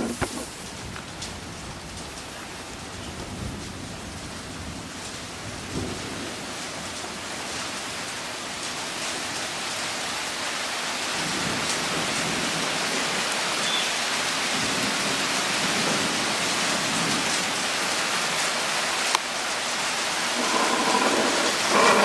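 Thunderstorm: steady rain that slowly grows louder, with low rumbles of distant thunder under it. A single sharp click near the end.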